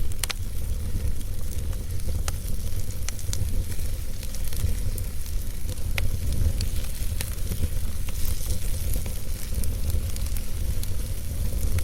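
Wood fire burning in a fireplace: a steady low rumble of flames under a hiss, with scattered sharp crackles and pops from the burning logs.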